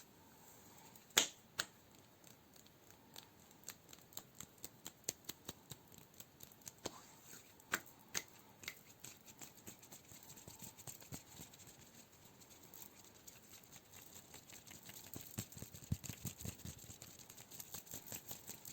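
Close-miked ASMR finger tapping and scratching: a run of irregular sharp clicks and taps, louder ones about a second in and again near eight seconds, thickening into a dense fine crackle near the end.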